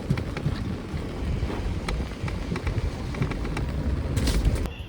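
Wind buffeting the microphone, a dense low rumble with scattered light ticks, changing abruptly near the end.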